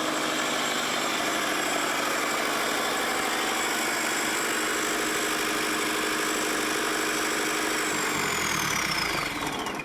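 Lister Petter diesel engine on a generator set running steadily at a fixed speed, loud because no exhaust is fitted. About eight seconds in, a high whine drops steeply in pitch and the engine sound dies away.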